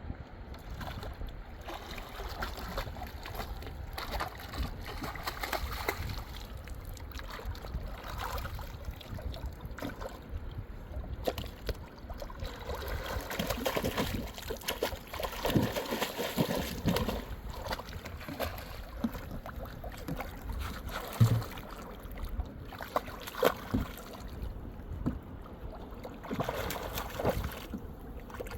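River water splashing and sloshing, with irregular knocks and a low rumble of moving water.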